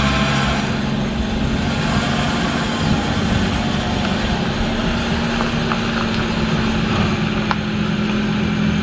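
A car engine running steadily, with a low hum that holds one pitch and stops at the very end.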